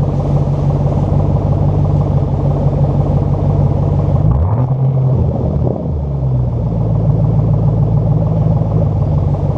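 Ford Mustang 4.6 V8 running steadily through its exhaust, with a brief shift in pitch a little under halfway through before it settles back to a steady note.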